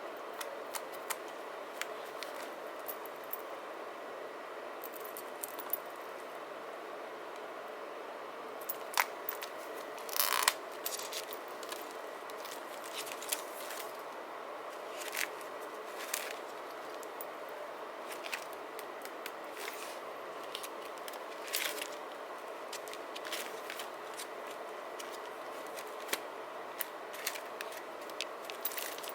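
Desk handling sounds of paper and stickers: scattered soft clicks, taps and short rustles, with a louder rustle about ten seconds in and another about two-thirds of the way through, over a steady faint hiss.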